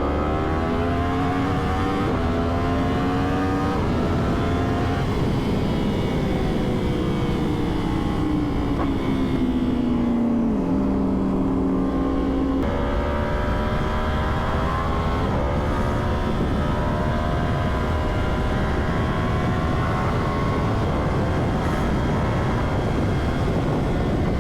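Sport motorcycle engine under way: it pulls up through a couple of upshifts, eases off with its pitch sinking and a downshift near the middle, then pulls up through the gears again.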